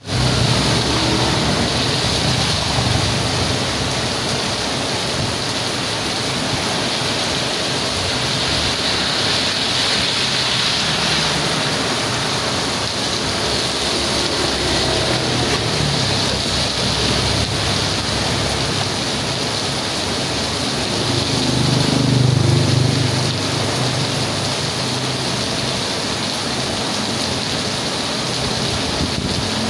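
Heavy rain pouring steadily. A low rumble underneath swells about two-thirds of the way through.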